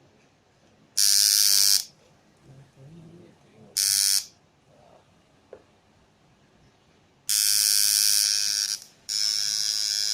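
Electric tattoo machine buzzing, switched on and off in four runs: two brief ones, then two longer ones of one and a half to two seconds or more.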